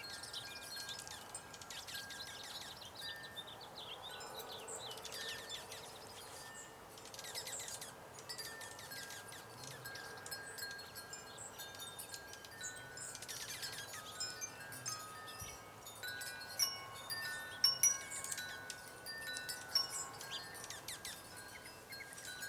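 Wind chimes ringing softly, many overlapping notes at several pitches, busier and louder in the second half, with small birds chirping.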